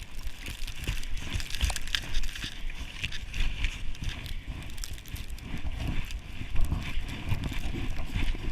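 Irregular thumping and scraping hiss of movement over snow, with low rumbling throughout.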